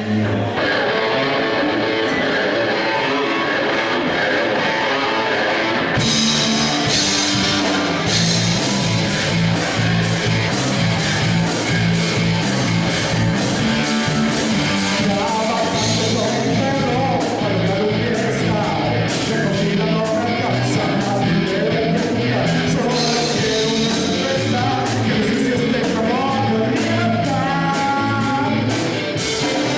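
Rock band music with electric guitar. The drums come in about six seconds in and the full band plays from about eight seconds, with singing.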